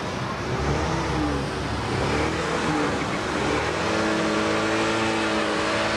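Car engine running loudly and being revved, its pitch shifting at first and then held steady for the last couple of seconds.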